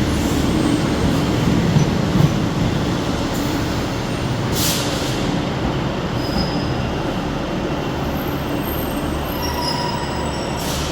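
Northern passenger train moving slowly at the platform: a steady rumble with brief high-pitched wheel squeals, and two short hisses, about halfway and near the end.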